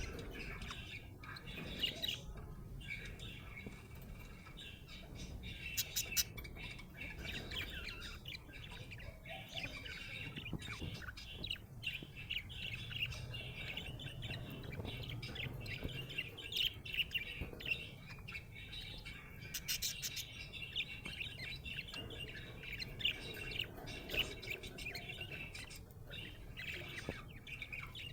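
Budgerigar chirping and chattering continuously, a busy run of short warbling notes with sharp clicks mixed in.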